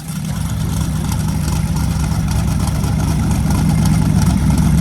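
Car engine idling steadily, growing gradually louder.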